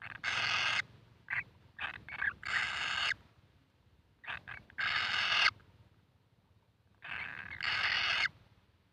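Kingfisher chicks giving a series of hissing, buzzy calls, each about half a second long, with short chirps between them. There are four long calls, in two pairs.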